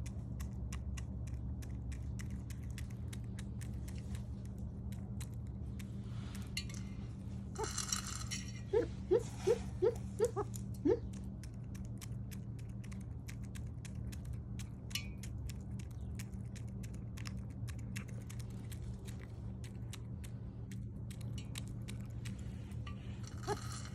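Pheasant giving a quick run of about six short, low clucks about ten seconds in, over a steady low hum and scattered small clicks.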